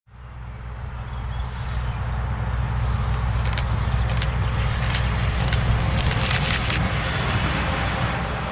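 Red passenger multiple-unit train running past along the line with a steady low rumble. A quick run of sharp clicks comes about halfway through.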